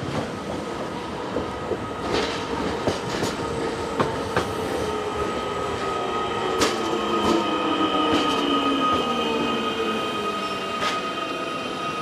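Matterhorn Gotthard Railway ABDeh 4/8 'Komet' electric multiple unit running past at low speed. Its wheels click sharply over rail joints and points, with a steady high wheel squeal, and in the middle a motor whine falls in pitch.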